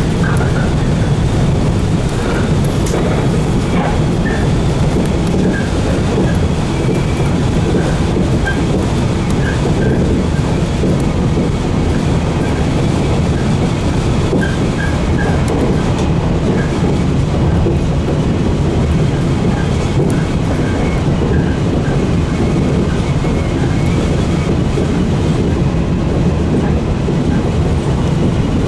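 JR 115 series electric multiple unit running along the line: a steady, loud low rumble of wheels on rail and the train's running gear, with no breaks.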